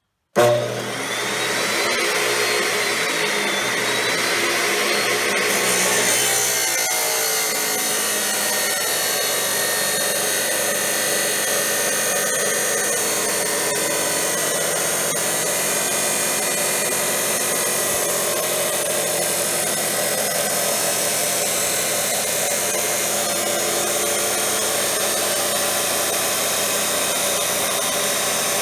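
A 14-inch abrasive wheel chop saw starts suddenly and grinds through steel stock with a steady, loud noise.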